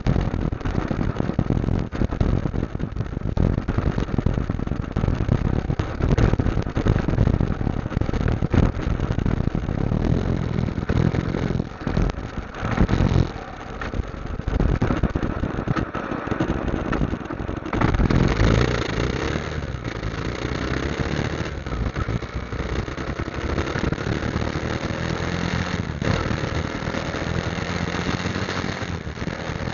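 Motorcycle engine running on the move, with heavy wind buffeting on the microphone. About two-thirds of the way in the buffeting eases and a steadier engine note comes through.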